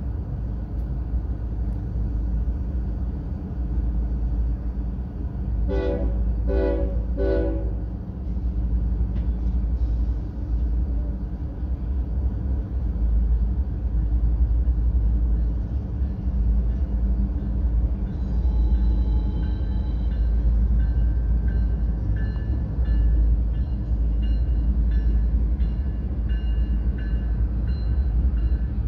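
Freight train of diesel locomotives rumbling steadily past, with three short horn blasts about six seconds in. From about two-thirds of the way in, thin high squealing, typical of steel wheels on the rails, rides over the rumble.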